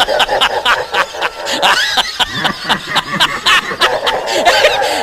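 High-pitched snickering laughter, many quick chirping calls with clicks between them.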